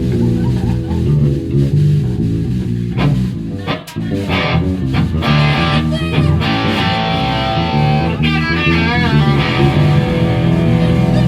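Live rock band playing an instrumental passage with no vocals: electric guitar and bass guitar, the guitar playing wavering, bent lead notes about eight to nine seconds in. The sound dips briefly just before four seconds.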